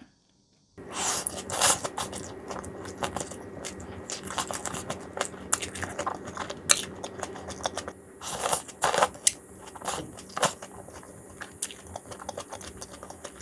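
Close-up crunching and chewing of boneless fried chicken topped with green onion and onion, in irregular bites that are loudest about a second in and again around eight to nine seconds in.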